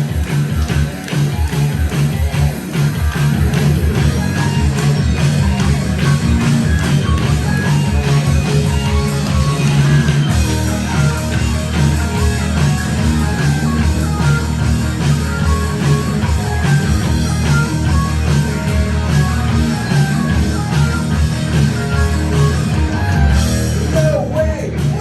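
Hard rock band playing live: distorted electric guitar, bass, keyboards and drums, with a shift in the arrangement about ten seconds in.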